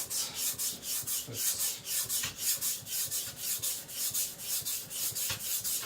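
Steel cleaver blade being ground on a wet whetstone in quick, even back-and-forth strokes, a rhythmic scraping hiss. The blade is being thinned behind the edge, and the knife's own unevenness leaves low spots that the stone is not yet reaching.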